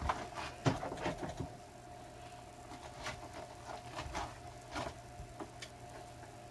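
Scattered light knocks and clicks from things being handled, over a steady low hum; the knocks cluster in the first second and a half and come again a few seconds in.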